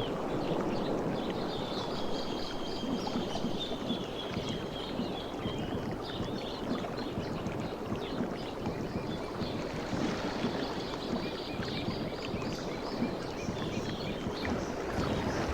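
Sea waves washing continuously on a shore, a steady dense rush of surf, with faint high chirping above it at times.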